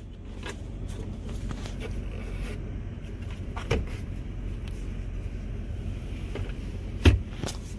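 Low steady hum inside a car cabin, with a few light clicks and knocks from interior compartments being handled; the loudest two come close together near the end.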